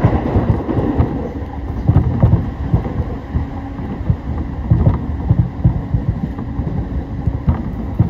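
Running noise of a train heard from inside the passenger car: a steady low rumble with frequent low thumps from the wheels on the track.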